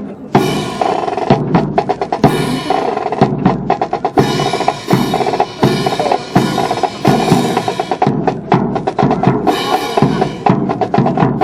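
Marching percussion section playing a fast cadence: snare drum strokes and rolls over bass drum hits, punctuated by repeated cymbal crashes.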